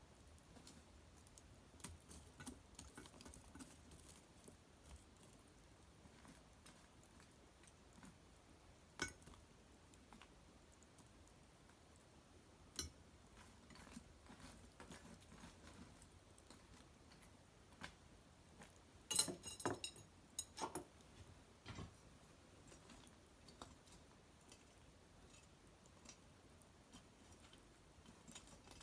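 Small wood fire crackling: scattered faint pops and ticks, with a louder burst of crackles about nineteen seconds in.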